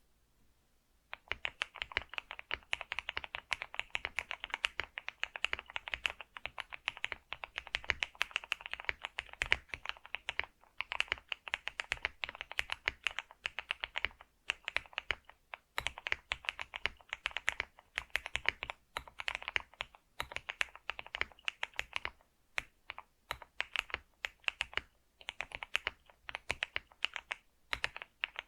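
Computer keyboard being typed on quickly: a fast, continuous stream of key clicks that starts about a second in, broken by a few short pauses.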